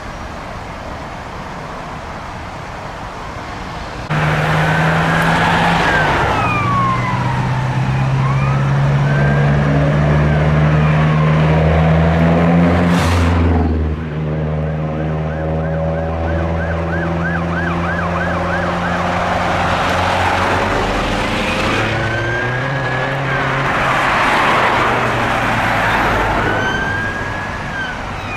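Emergency vehicle siren starting about four seconds in, sounding a slow rising-and-falling wail, then a fast yelp for a few seconds, then the wail again. Under it a heavy vehicle engine runs, and the vehicle passes close about halfway through.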